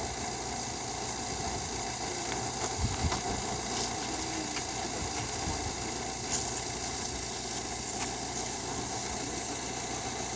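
An engine running steadily at idle, a constant hum with a few faint clicks.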